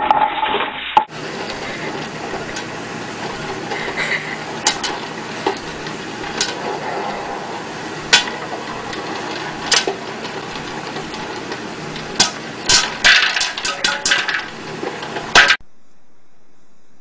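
Sharp clinks and knocks of hard objects over a steady background noise, coming faster near the end.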